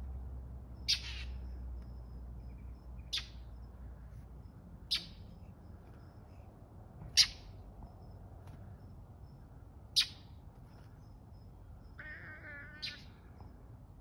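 A bird giving short, sharp alarm calls about every two seconds, six in all, scolding a cat it is dive-attacking. Near the end a cat meows once.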